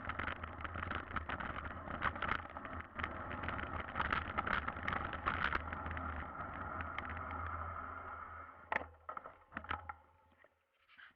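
Mountain bike riding over rough ground: a low rumble with frequent rattling clicks, fading out near the end with a few last clicks.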